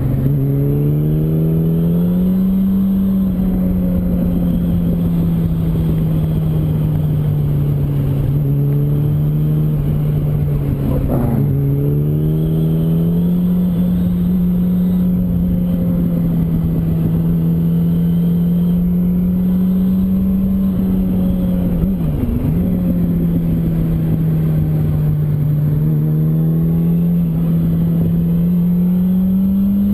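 Yamaha R1's inline-four engine running under load, its pitch rising and falling with the throttle. It climbs about two seconds in, dips briefly twice, about a third and two-thirds of the way through, and climbs again near the end.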